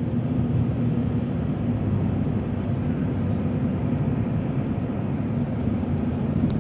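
Car cabin road noise: a steady low drone of tyres and engine from a car driving on wet pavement.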